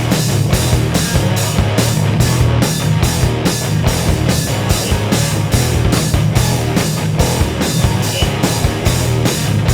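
Live rock band playing an instrumental passage without vocals: a drum kit keeps a steady beat of about three hits a second over a heavy bass.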